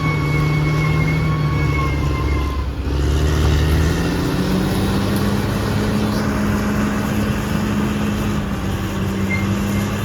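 Caterpillar D6R XL bulldozer's diesel engine running under load, its pitch stepping up about four seconds in.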